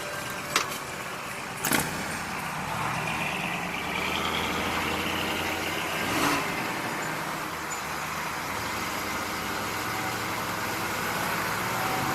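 Motor vehicle engine running steadily with road and traffic noise, and two sharp knocks within the first two seconds.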